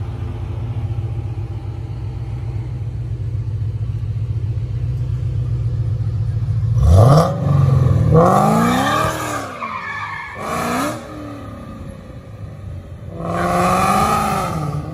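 Supercharged V8 of a Ford Shelby GT500 Mustang: a steady low rumble, then revved hard about seven seconds in, its pitch rising and falling through several bursts, sounding mean.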